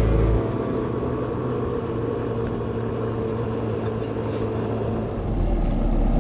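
Motorcycle engine running steadily with road and wind noise while riding. Background music cuts off about half a second in.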